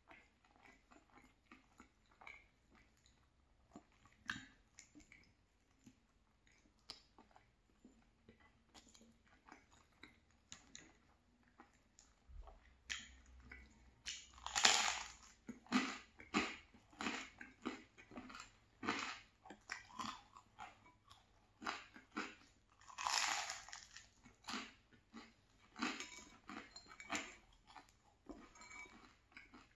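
Eating sounds: soft, quiet chewing of tomato-sauce pasta, then from about halfway loud, repeated crunching as crunchy garlic bread is bitten and chewed, roughly one crunch a second.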